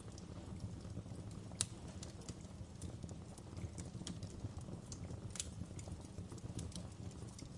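Wood fire crackling: a steady low rumble of burning with scattered sharp pops and crackles, the loudest about one and a half seconds in and another about five and a half seconds in.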